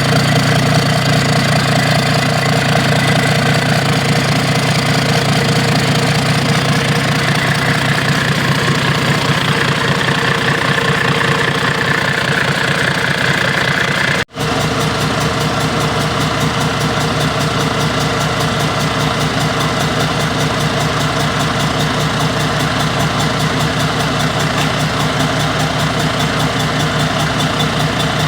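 Engine running steadily on a test run, with an even pulse of firing strokes. The sound cuts out for a moment about halfway through, then carries on as before.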